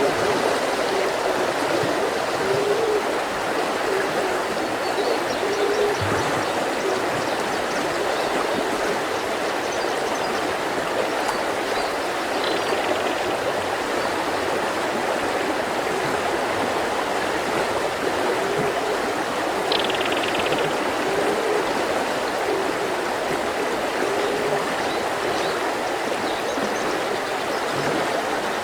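A mountain river flowing and rushing steadily over stones. A few faint, short bird chirps sound above the water.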